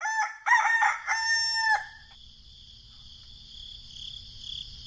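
A rooster crowing once, a long call in several parts, during the first two seconds. It is followed by a steady high-pitched chirring of insects.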